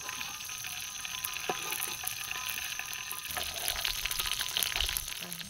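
Food frying in hot oil in a pan: a steady crackling sizzle with a few light knocks, cutting off abruptly at the end.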